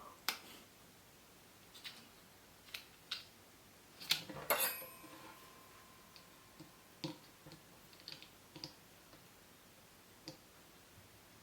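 Scattered small clicks and taps of hands working at a plastic sauce package whose tear-off tab has broken. The loudest cluster comes a little after four seconds.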